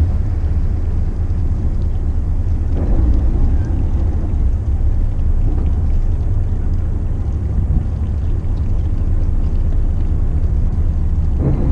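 Steady low rumble of a motor yacht's engines.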